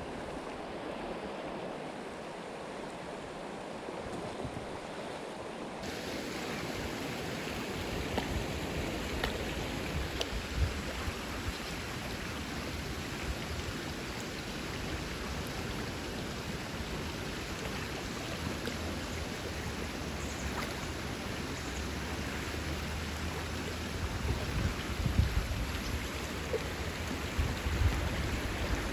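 Creek water flowing steadily, with low rumbles and a few short thumps near the end.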